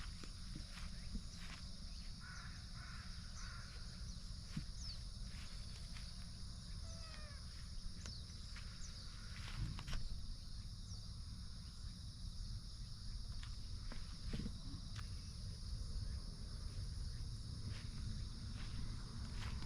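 Outdoor ambience in which a crow caws a few times and small birds chirp, with scattered sharp clicks and knocks over a steady low rumble.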